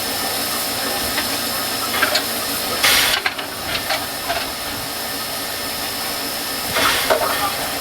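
Narrow-gauge steam locomotive hissing steam steadily, with two short, louder bursts of hiss about three seconds and seven seconds in.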